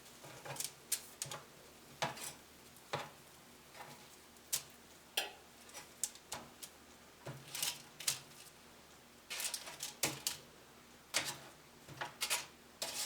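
Irregular clicks and taps of a utensil against a baking sheet as chicken wings are turned over one by one, sometimes several taps in quick succession.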